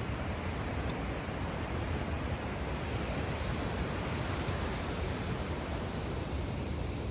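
Wind buffeting the microphone: a steady rushing noise with a heavy, flickering low rumble.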